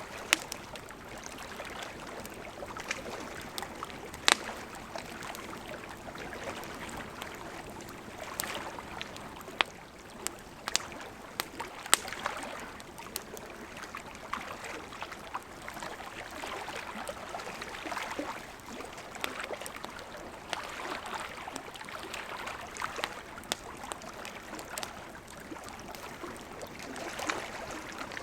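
Lake water lapping gently at the shore in irregular swells, with a wood campfire crackling and popping in sharp, scattered snaps; the loudest pops come about 4 and 12 seconds in.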